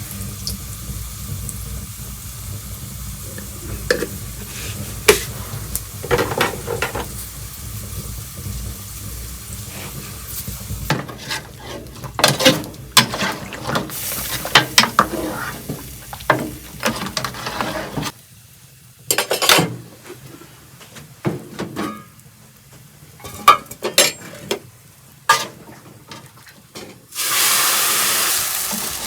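Cooking by hand: utensils knocking and scraping against pots and pans in scattered clicks, with a steady loud sizzle of frying for a couple of seconds near the end.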